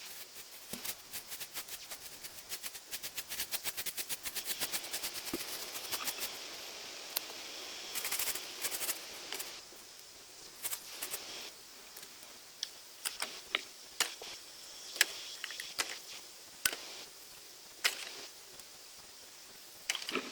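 A fast run of sharp taps or clicks, about four a second for the first several seconds, then scattered single louder snaps.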